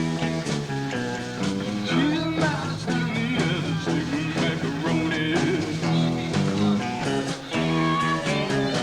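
Live rock band playing: electric guitars over bass guitar and a steady drum beat.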